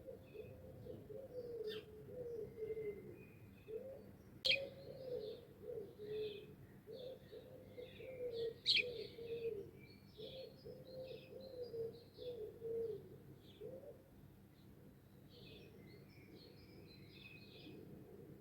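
Birdsong: a pigeon or dove cooing in repeated phrases that stop a few seconds before the end, over steady high chirping and twittering of small songbirds. Two sharp clicks stand out, about four and a half and nine seconds in.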